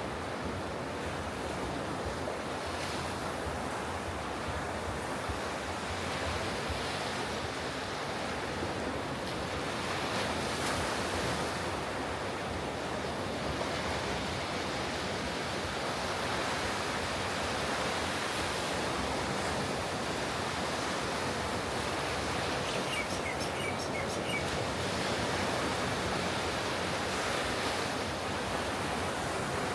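Ocean surf: waves breaking and washing ashore in a continuous rush that swells and eases in loudness now and then. About three quarters of the way through, a few faint high ticks sound briefly over it.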